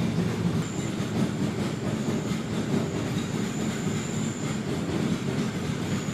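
Boat motor running steadily, a continuous low rumble.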